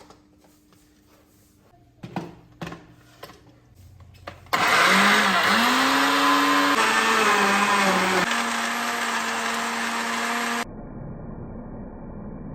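After a few clicks, a small high-speed electric motor runs loudly for about six seconds, like a blender, with a whine that rises in pitch and then shifts between steady notes. It cuts off abruptly, leaving a quieter, duller steady noise.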